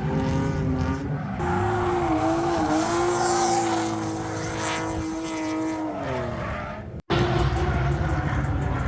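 Drift car's engine held at high revs, its pitch wavering slightly, over a haze of tyre noise, then falling away about six seconds in. The sound cuts out abruptly for an instant just after seven seconds and resumes with another engine note.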